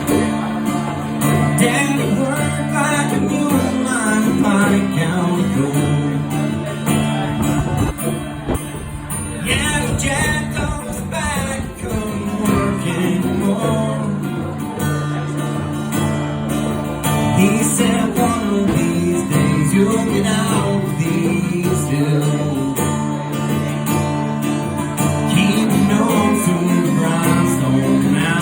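Acoustic country band playing an instrumental intro, led by guitar, with a melody line moving over steady strummed chords.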